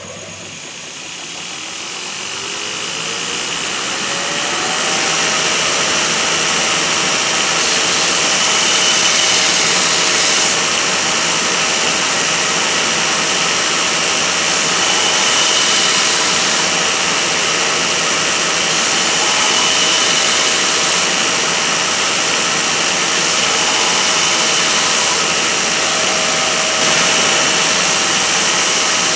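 Electric grinder's motor spinning up, its hum rising in pitch over the first few seconds and then holding steady, with a continuous hiss as the small steel hammer head is ground round on it.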